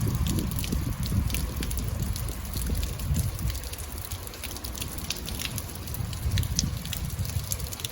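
Rain falling, with many scattered drops ticking sharply close by over a low rumble.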